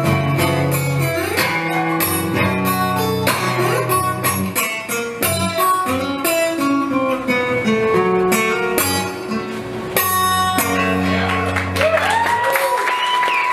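Acoustic guitar playing a blues instrumental passage, picked higher notes over low bass notes. The bass drops out near the end, and a held ringing tone is left as the audience starts to cheer.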